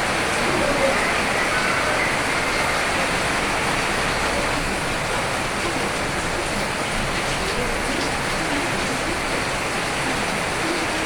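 Rain falling steadily, an even hiss without separate drops standing out.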